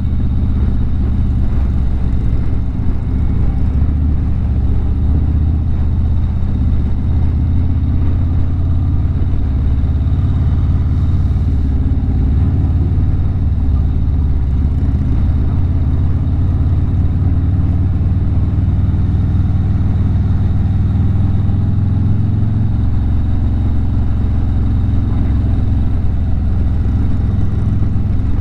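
Harley-Davidson V-twin motorcycle engine running steadily at cruising speed, a deep low engine note with even loudness.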